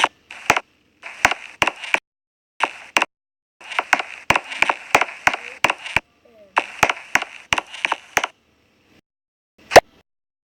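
A rapid string of sharp cracks and knocks, some run together with short noisy bursts, broken by brief gaps of dead silence, with one loudest crack near the end: the sound effects of wood being struck and splintering.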